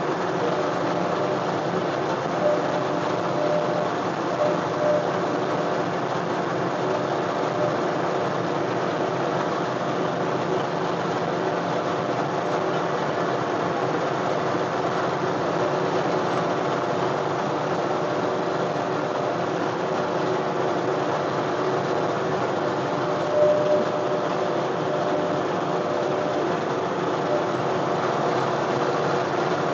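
John Deere 1025R compact tractor's three-cylinder diesel engine running steadily under work, with a few short louder spikes along the way.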